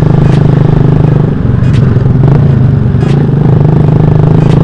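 Motorcycle engine with a loud aftermarket exhaust running steadily under throttle. It dips briefly just over a second in, then picks back up.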